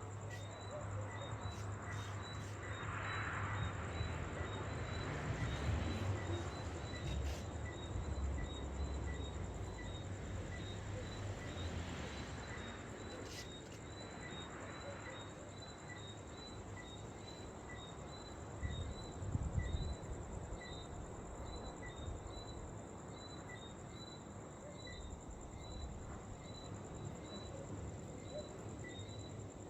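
Insects calling steadily: a continuous high-pitched trill with a regular chirp about twice a second. A low rumble runs underneath in the first part, and a brief louder swell comes about two-thirds of the way through.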